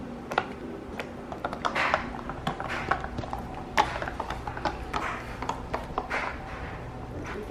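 Doberman pinscher puppies gnawing on a hard chew bone, with irregular clicking and scraping.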